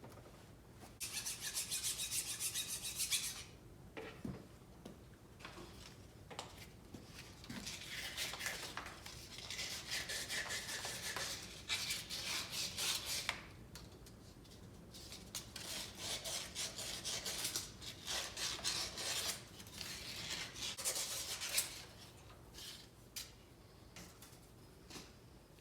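Rapid back-and-forth hand rubbing or scrubbing strokes on a hard part, coming in several bursts of a few seconds each, with a few light knocks in between.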